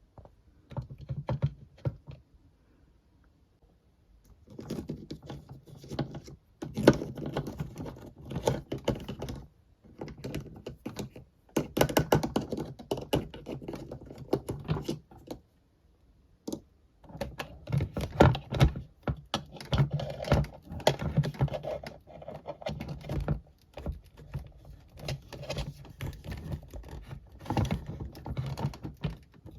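Hard plastic toy pieces clicking and clattering as they are handled, in spells of rapid clicks separated by short pauses.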